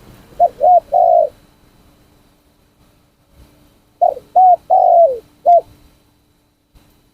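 Spotted dove cooing, a bird being trained for cooing: two phrases, the first about half a second in with two short notes and a longer one, the second about four seconds in with two short notes, a long falling note and a short closing note.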